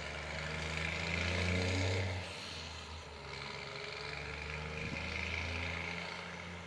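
Scania 420 truck engine running through a straight-through exhaust with no muffler: a low, steady engine note that swells for the first two seconds, then drops back and runs on evenly.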